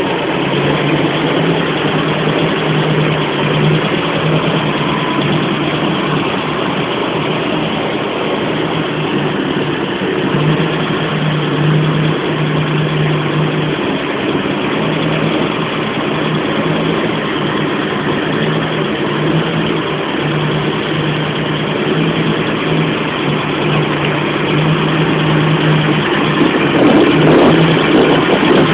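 Hot-rodded Ford 302 V8 engine in a Ford Maverick running steadily with a rumble, its low note coming and going unevenly; it gets a little louder near the end.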